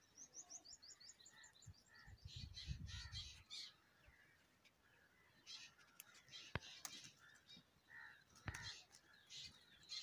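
Faint wild birds calling and chirping, opening with a quick run of about ten high chirps lasting about a second, then scattered calls. Two sharp clicks come about six and a half and eight and a half seconds in.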